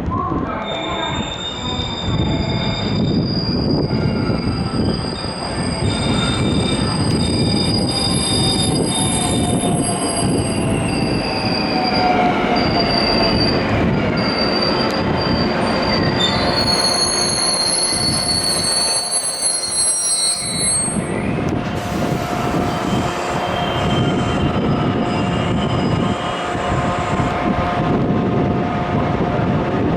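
JR 113 series electric train pulling in, its wheels and brakes squealing in several high, steady tones over a running rumble, with a falling whine as it slows. The squeal stops about two-thirds of the way through, leaving a steadier hum.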